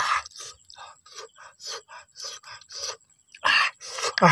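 Open-mouthed chewing and lip-smacking while eating grilled snails, about three smacks a second. A louder burst comes about three and a half seconds in, followed at the end by a voiced groan that falls in pitch.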